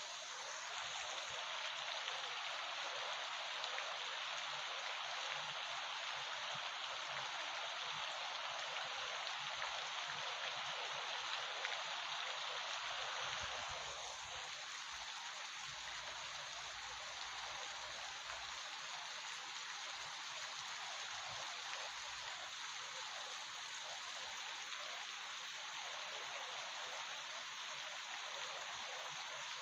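Heavy rain falling steadily, an even hiss that drops a little in level about halfway through.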